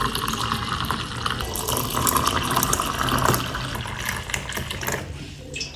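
Water pouring into a container, a steady splashing hiss that thins out near the end.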